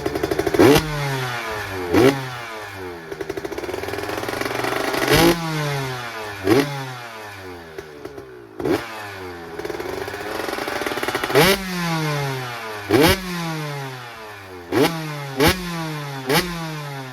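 KTM 125 SX two-stroke single-cylinder engine with a Pro Circuit R-304 Shorty silencer, revved in about ten quick throttle blips, each rev falling back toward idle. It sounds way louder and crisper than a stock pipe.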